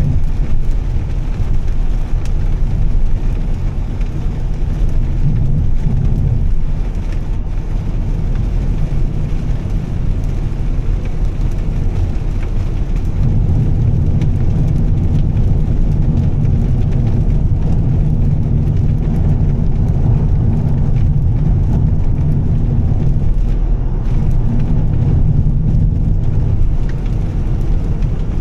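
Volvo S60 T6's turbocharged straight-six and Heico exhaust droning steadily while driving, mixed with tyre noise on a wet road and rain. The drone grows a little louder about halfway through.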